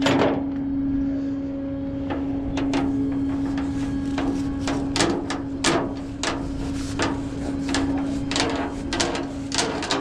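A steady machine hum under a string of irregular sharp metallic clanks and knocks.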